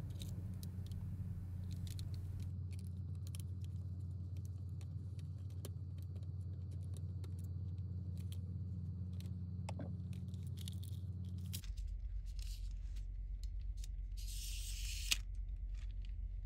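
Small plastic clicks and rattles as a toy vehicle is handled and its loosened halves are pulled apart, with a short hiss and one sharper click near the end. Under it is a steady low hum that drops lower about twelve seconds in.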